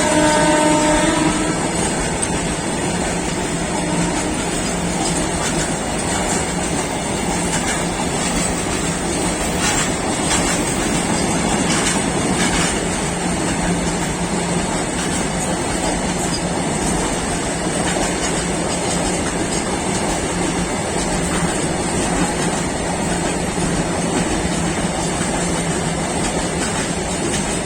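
Indian freight train of BCNA covered wagons rolling steadily past a level crossing, a continuous rumble with wheel clatter over the rail joints. The train's horn is just ending about a second in.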